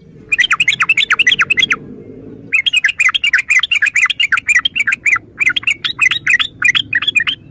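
Yellow-vented bulbul singing: rapid, bubbly phrases of quick chattering notes in three bursts with short breaks between them.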